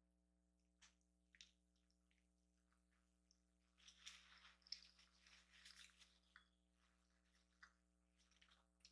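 Faint mouth sounds of someone chewing a chorizo, egg and cheese breakfast burrito: soft wet smacks and clicks, denser from about four to six seconds in.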